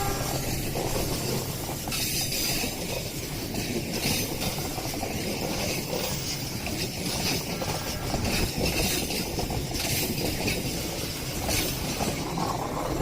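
Parahyangan passenger train running on the rails: a steady rumble of wheels and carriages, with repeated louder bursts of hiss every second or two.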